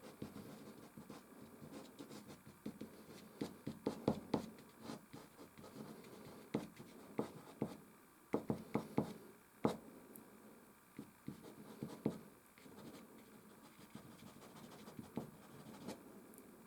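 Soft pastel stick rubbing and scratching across canvas in repeated strokes, with many sharp little clicks, busiest in the middle of the stretch.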